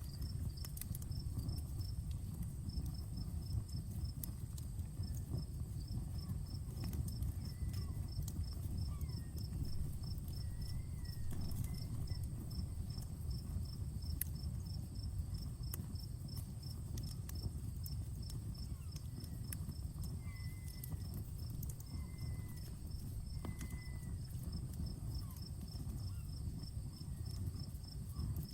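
Wood campfire crackling, with sharp irregular pops over a low rumble of burning. Insects chirp in a steady rhythm above it, over a constant high buzz.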